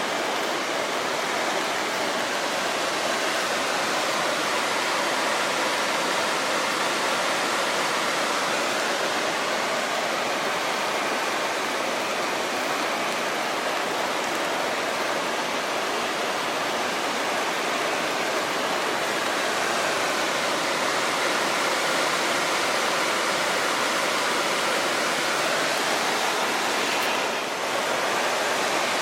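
Creek rushing below a railway bridge: a steady, loud wash of running water.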